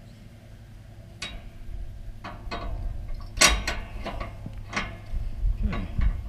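Tie-down straps being handled: scattered clicks, clinks and knocks of their carabiners and buckles, the loudest about three and a half seconds in, over a steady low hum.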